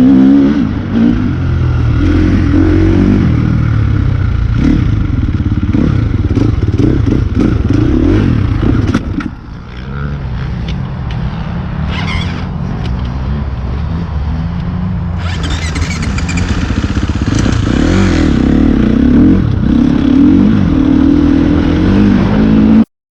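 Motocross bike engine being ridden hard, revving up and down through throttle changes, with a brief drop as the throttle is shut off about halfway through and a rushing hiss for a few seconds later on. The sound cuts off abruptly near the end.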